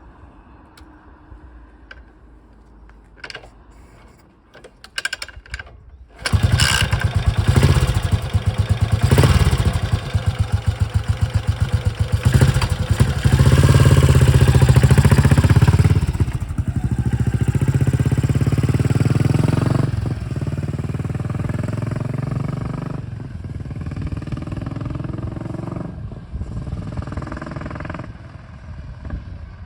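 Yamaha SR400 single-cylinder four-stroke engine through a vintage-style up-swept muffler, started about six seconds in after a few clicks, then revved and left to idle with a loud, even thumping beat. The revs climb and hold for a few seconds, then drop back to idle with several short throttle blips.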